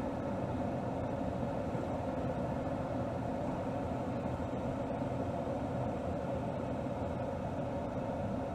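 Mercedes GLS 450's 3.0-litre turbocharged inline-six running steadily at a constant, low engine speed, heard from under the hood, with no revving.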